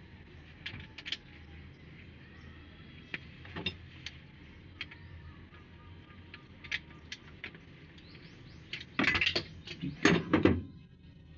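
Metal clinks and clatters of tools and parts being handled: scattered single clicks, then a louder run of clattering knocks about nine seconds in.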